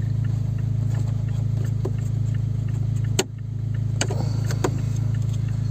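Car engine idling with a steady low hum, with a few sharp clicks, the loudest about three seconds in.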